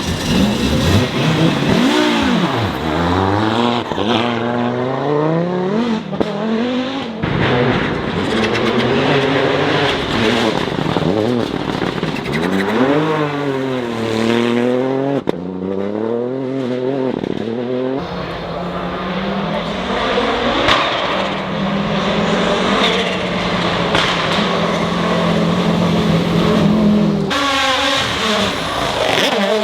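Rally car engines revving hard, the engine note climbing and dropping again and again through gear changes, with a spell of steady engine note in the second half. The sound changes abruptly a few times.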